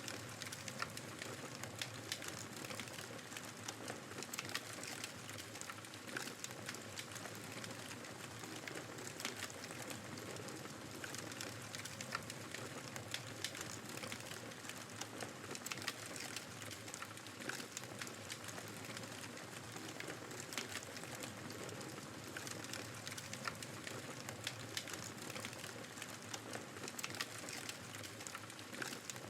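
Wood fire crackling with frequent small, irregular pops over a steady hiss of blizzard wind.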